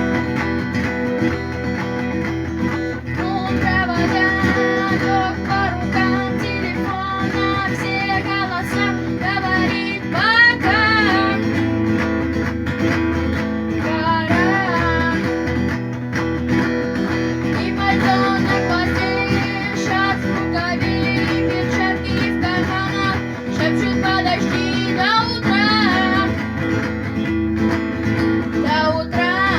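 Guitar strummed in a steady galloping rhythm, with the muted percussive knock stroke ('стук') worked into the strum.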